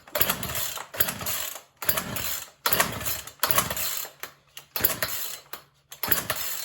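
Poulan Pro 4620 chainsaw's recoil starter pulled about eight times in quick succession, the engine cranking over without catching. Gas is pouring out of the saw, and the owner thinks it may be flooding itself out through a jet hung open.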